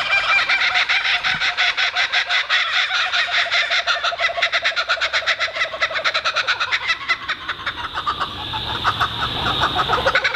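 Birds calling in a loud, rapid, rhythmic chorus of pulsed notes, about seven a second, with the rhythm loosening and shifting in pitch in the last few seconds.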